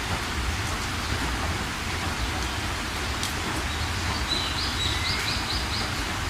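Steady rain falling, with birds chirping over it; about four and a half seconds in, one bird gives a quick run of about six short chirps.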